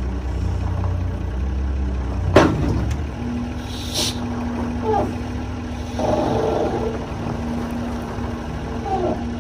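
Steady engine-like rumble with one sharp metallic knock about two and a half seconds in, after which a steady hum sets in and a few short squeaks come and go.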